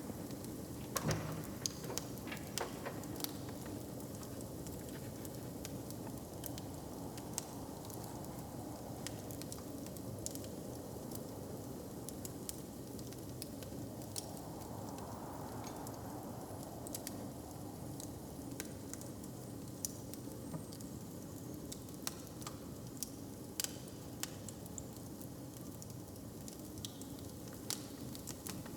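Wood fire crackling, with many scattered sharp pops, a louder flurry of them near the start. Under it runs a steady low background rumble that swells briefly around the middle.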